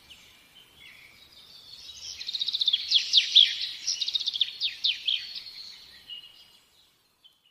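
A small bird chirping in rapid runs of quick, high, downward-sweeping notes, loudest in the middle and fading away near the end.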